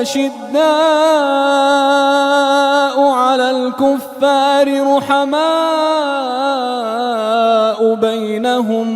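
A reciter chanting the Quran in melodic tajweed style, drawing out long held notes that wave and bend in pitch. There are brief breaks for breath about four, five and eight seconds in.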